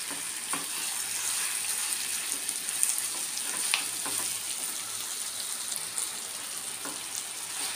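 Prawns, capsicum and onion sizzling in hot oil in a non-stick kadai as they are stirred with a wooden spatula, a steady hiss with a few faint taps of the spatula against the pan.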